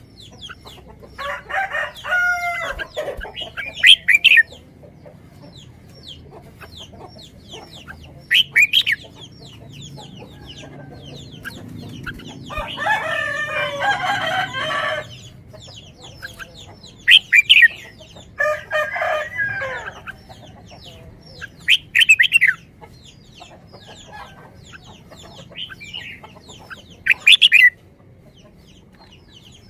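Chickens calling, with a rooster crowing: three longer calls, the longest about two seconds near the middle, and short sharp high calls every few seconds in between.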